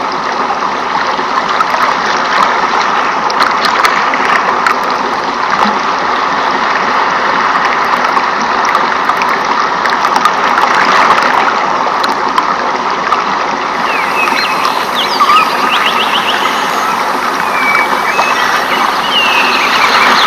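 Steady rushing and trickling of a flowing stream. In the second half, short high chirping calls rise and glide above the water.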